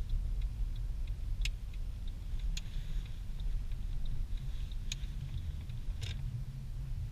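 Tuned Mercedes C63 AMG cruising with a steady low engine and road drone. Four or five sharp, irregular clicks or ticks sound over it.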